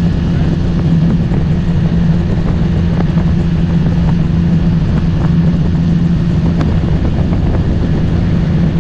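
Motorboat engine running at a steady speed, a constant low drone with rumble underneath.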